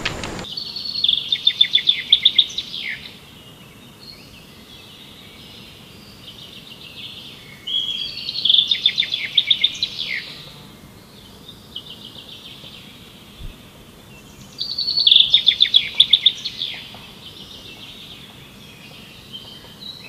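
A bird singing: three bouts of rapid repeated high notes ending in falling sweeps, each a couple of seconds long and about six to seven seconds apart, with softer calls in between.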